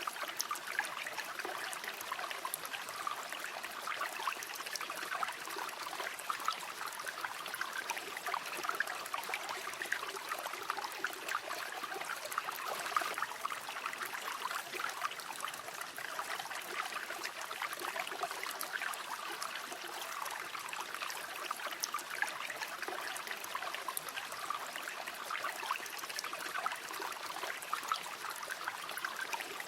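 River water flowing over stones, a steady rush with irregular small splashes and burbles.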